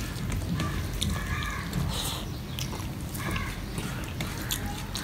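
Close-up chewing of rice and dal, with small wet clicks and squishes as a bare hand mixes rice on a steel plate. A crow caws three times in the background, near the start, about a second and a half in, and past three seconds.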